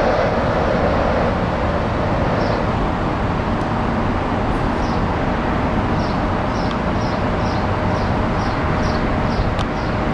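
Amtrak passenger train rolling by, a steady rumble of wheels on rail. A louder sound fades out over the first couple of seconds. In the second half, a run of short high chirps comes two or three times a second.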